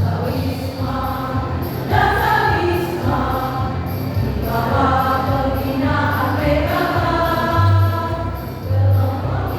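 Choir singing in parts over a low, pulsing instrumental beat.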